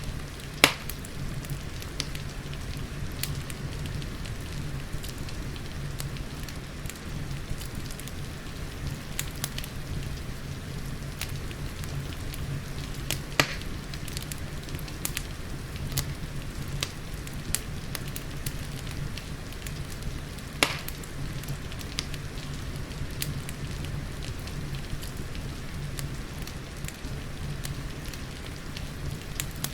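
Wood fire crackling with scattered small snaps and three louder pops, over a steady hiss of rain and a low, even rumble.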